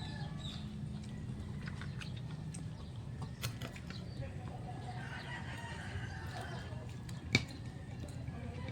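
A steady low hum with a few sharp clicks and crunches from eating, the loudest about seven seconds in. A distant bird call wavers in the background near the middle.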